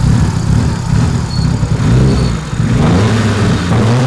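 Mitsubishi Airtrek's turbocharged four-cylinder engine running with the bonnet open, its speed wavering and rising and falling a few times. It has just been fitted with new high-impedance injectors and is being set up again.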